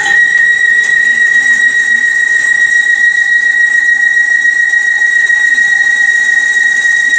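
CNC lathe cutting tool squealing as it cuts the steel box connection: one steady, loud high-pitched tone that starts abruptly and stops about seven seconds later.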